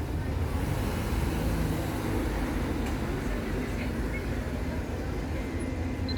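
Diesel bus engine idling, a steady low rumble.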